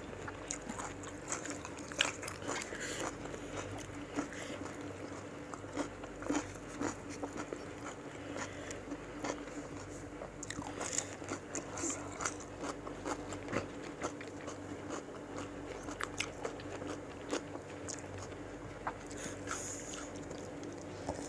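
Close-miked crunching bites and chewing of raw fruit slices, many short crisp crunches throughout, over a faint steady hum.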